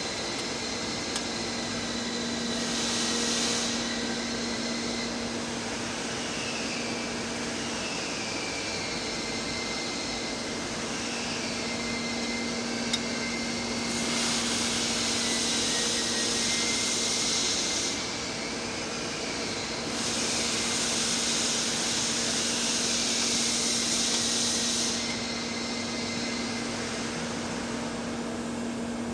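TIG welding arc on heavy-wall steel pipe, hissing over a steady hum, with three stretches of louder, brighter hiss: a short one near the start and two of about four to five seconds in the second half.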